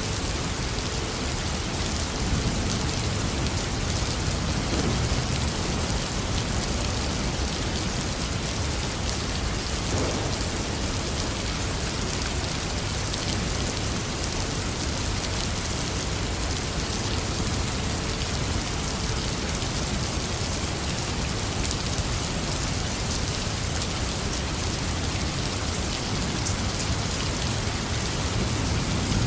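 Heavy rain falling steadily, with low rumbles of thunder about two to six seconds in and again near the end.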